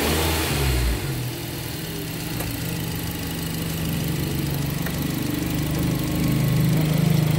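Nissan Livina's engine idling, heard close up in the open engine bay, growing gradually louder over several seconds.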